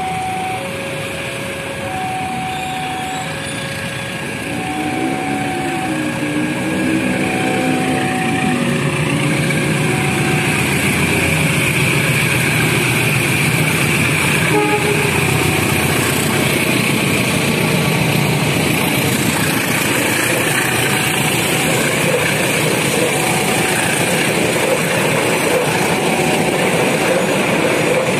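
Level-crossing warning alarm alternating between two tones about once a second, and a train horn sounding about five to eight seconds in. A diesel locomotive-hauled passenger train then grows louder as it approaches and runs past the crossing, its engine and wheels on the rails holding a steady loud noise through the rest.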